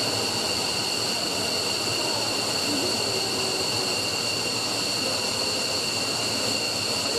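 F-15 fighter's turbofan engine running steadily on the ground, a constant rushing noise with a high whine at several pitches.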